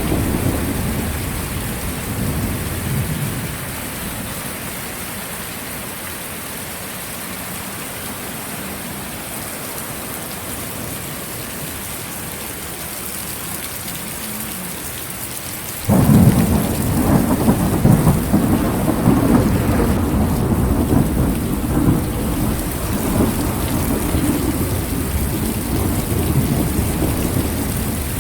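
Heavy rain pouring steadily, with a roll of thunder fading out over the first few seconds. About halfway through, thunder breaks in suddenly and loudly and keeps rumbling in surges to the end.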